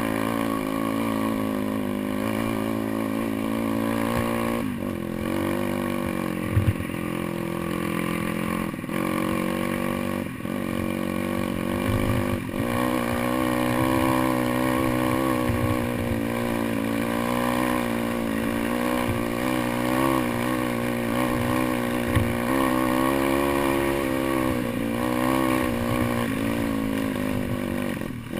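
Pit bike engine running and revving up and down, its pitch rising and falling continuously as the bike is ridden, with a few sharp knocks along the way.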